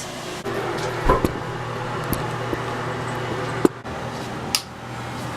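Electric pet hair clippers switched on and buzzing steadily from about half a second in, with a few short clicks and knocks of handling, used to shave a matted cat.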